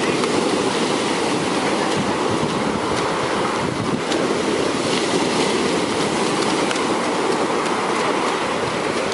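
Large sea waves breaking on a beach: a continuous, steady rush of surf.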